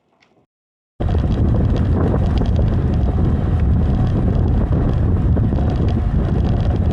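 Loud wind buffeting the microphone, a dense low rumble with hiss that cuts in abruptly about a second in.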